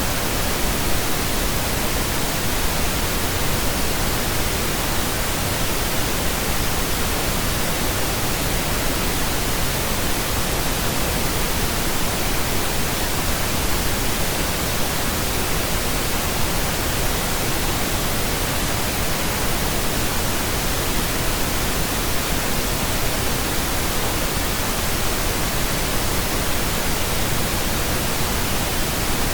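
Steady pink noise: an even, unbroken hiss that stays constant throughout.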